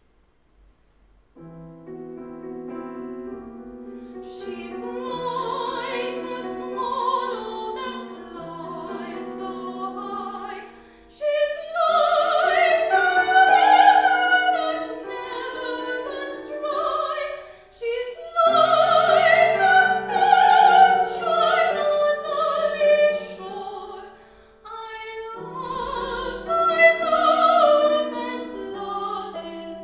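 Classical singing with vibrato accompanied by piano, starting about a second and a half in; the sung phrases swell louder in the middle and stop briefly between phrases a few times.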